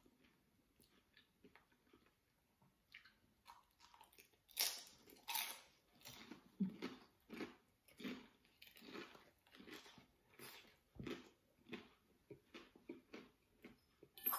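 Crisp fried lumpia (Filipino spring roll) being bitten and chewed close to the microphone. Two louder crunches come about four and a half and five seconds in, then steady chewing at about two chews a second.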